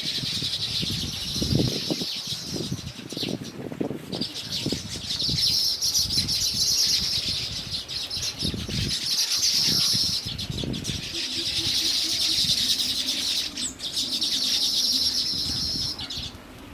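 Bird calls: long runs of rapid, high-pitched chattering that break off and start again several times, over low thumps and rustling.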